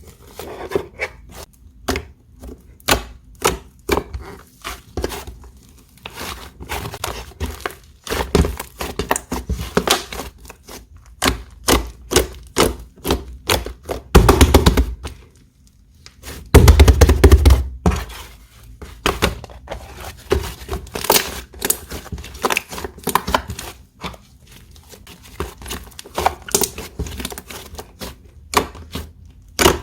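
Slime being pressed, poked and stretched by hand, making quick runs of sharp clicking and popping from trapped air. Two louder, longer squishes come around the middle.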